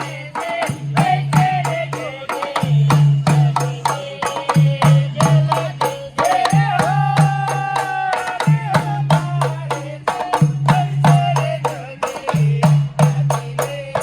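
Tharu folk dance music: a singing voice over a fast, steady rattling percussion beat and a low bass note that pulses about every two seconds.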